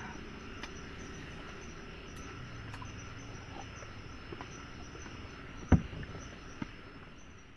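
Forest insects chirring in a steady, high, thin drone over a constant background hiss. One sharp knock about three-quarters of the way through, followed by a fainter click.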